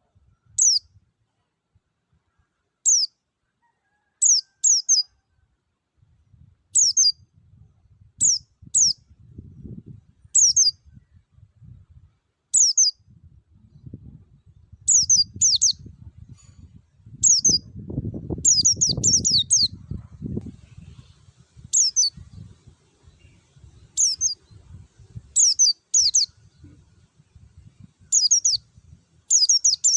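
White-eye (pleci) calling in its wild 'ngalas' style: short, sharp, high notes, each sweeping downward, given singly, in quick pairs or in clusters of three to four every second or two. A low rumble runs under the calls and is loudest around the middle.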